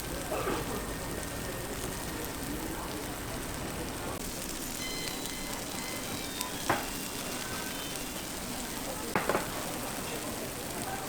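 Steady sizzling from batter cooking in hot bungeoppang (fish-shaped pastry) moulds, with two sharp metal clacks a few seconds apart in the second half.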